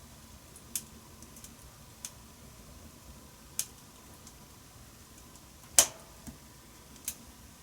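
Wood fire in a wood-burning stove crackling: a handful of sharp, irregular pops and snaps over a low steady hiss, the loudest a little before the end.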